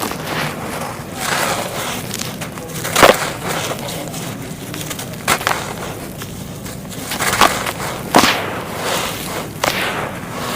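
Dry clay being crumbled and snapped by hand: a continuous gritty crumbling with about five sharp cracks as pieces break.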